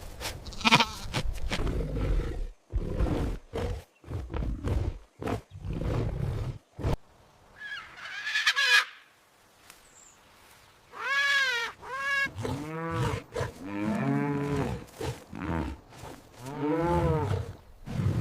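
A series of real farm animal calls: short rough sounds during the first few seconds, then several drawn-out calls that rise and fall in pitch, like bleats or moos.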